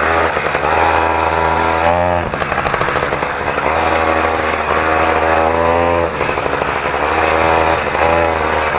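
Motorized BMX's small two-stroke engine running through its new welded pipe and homemade muffler, revving up and dropping back three times as the bike is ridden.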